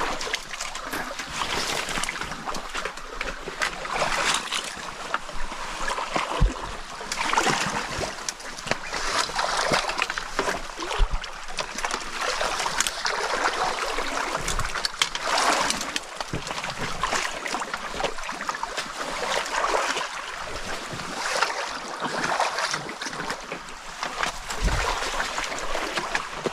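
Shallow stream water splashing and sloshing as people wade through it, with running water throughout and a few short low bumps.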